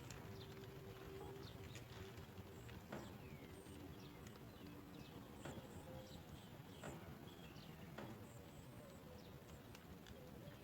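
Faint short high-pitched chirps from small birds at a nest, with soft clicks and taps scattered about once a second, over a low hiss.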